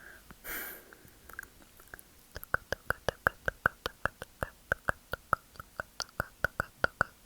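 ASMR mouth sounds close to the microphone: a short breathy hiss about half a second in, then a steady run of quick tongue clicks ('tk tk tk'), about five a second.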